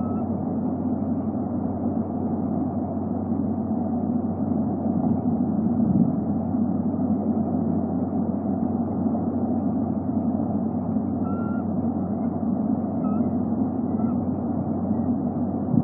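Steady low rumbling background noise on the outdoor nest-camera microphone, with a few faint, short, high chirps from a bird about two-thirds of the way through.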